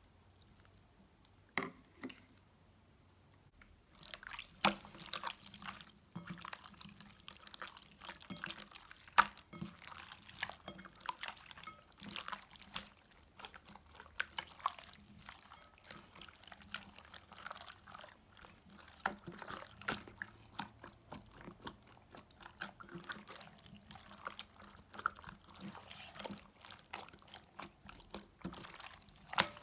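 Slime being squished and kneaded by hand, with a dense run of small wet pops and crackles starting about four seconds in, after a few faint clicks.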